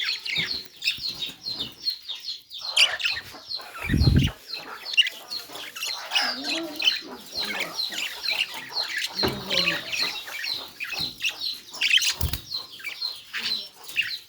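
Budgerigars chirping and chattering in quick, continuous strings of short high chirps. Three dull low thumps break in, the loudest about four seconds in.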